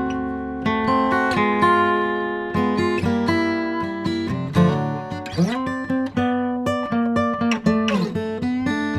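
Acoustic guitar music, plucked and strummed, with a few sliding notes.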